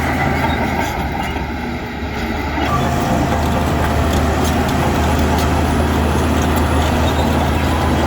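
Heavy earthmoving machine's diesel engine running steadily, easing off slightly about a second in and picking back up at about three seconds.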